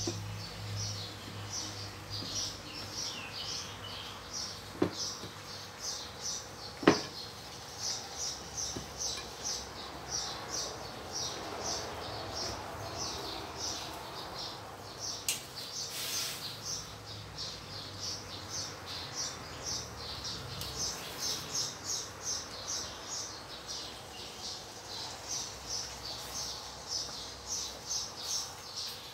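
A small bird chirping over and over, about two or three short chirps a second. Two sharp knocks of a spatula against the steel wok about five and seven seconds in, the second the loudest sound.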